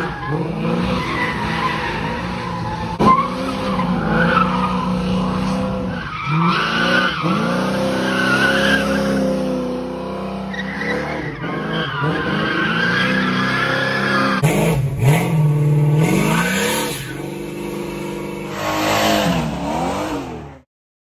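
Small-block Chevy V8 engines in G-body cars revving up and down over and over. The sound cuts off suddenly near the end.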